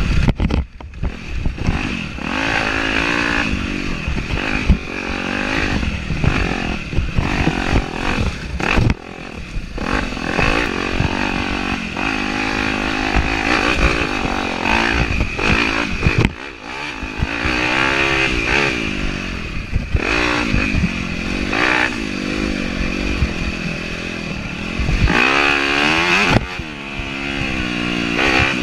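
Yamaha YZ250F's 250cc four-stroke single-cylinder engine under hard trail riding, the throttle opened and closed again and again so the pitch keeps rising and falling. Short knocks and clatter from the bike running over rough ground come through underneath.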